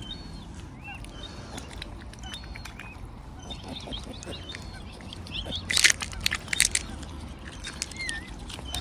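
Wild waterbirds calling, with short rising and falling chirps, over a low steady background. About six seconds in comes a brief cluster of loud, sharp crunching strokes.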